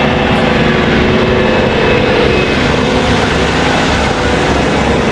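Large farm tractor's diesel engine running steadily, with a constant drone and a few steady tones over it.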